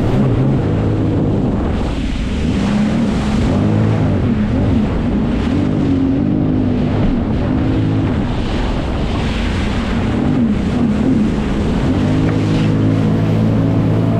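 Jet ski engine running under way, its pitch rising and falling repeatedly as the throttle is worked, over rushing water and wind buffeting the microphone.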